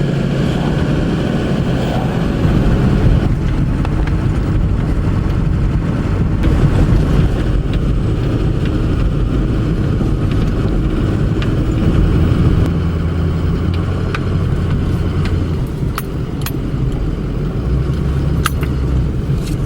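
A car driving along a road, heard from inside the cabin: steady engine hum and road noise, with the engine's pitch shifting a few times as the speed changes. A few sharp clicks come near the end.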